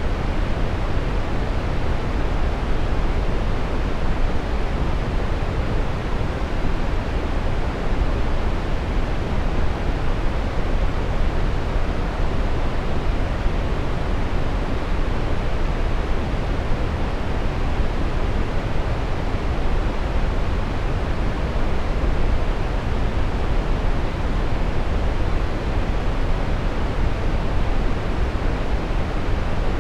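Steady brown noise: an even, deep rushing hiss, strongest in the bass and thinning toward the treble, with no changes.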